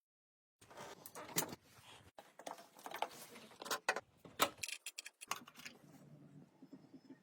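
Irregular clicks, taps and scrapes of hand work on small metal parts, starting suddenly about half a second in after a moment of dead silence.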